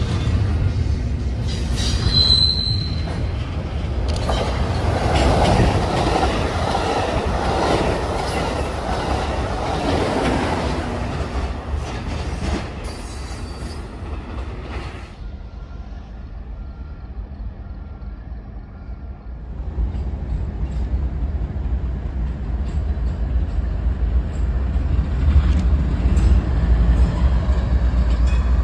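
Double-stack intermodal freight train rolling past, with the rumble and rattle of cars and wheels and a short wheel squeal about two seconds in. After a quieter stretch, a lashup of BNSF diesel freight locomotives approaches with a deep engine rumble that grows louder toward the end.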